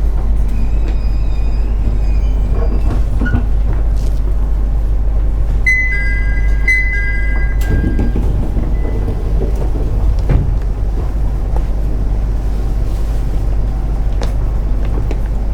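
Interior running noise of a JR East 701 series electric multiple unit, a steady low rumble. About six seconds in, a two-pitch electronic chime sounds twice, about a second apart.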